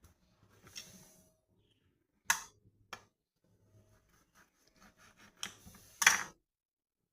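Sharp knocks and clatter of pork ribs and kitchen utensils being handled during food preparation: a strong knock a couple of seconds in, a quick run of small ticks, and a louder knock near the end.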